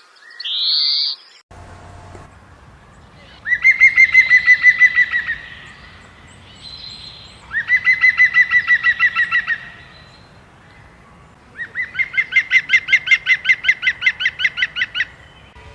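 A bird calling: a short rising call, then three bursts of rapid repeated notes, about ten a second, each burst lasting two to three seconds.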